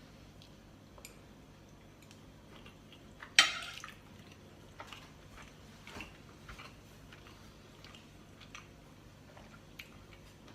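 Someone quietly tasting food: one short scraping sound about three seconds in, then faint small clicks and mouth sounds of eating over a low steady hum.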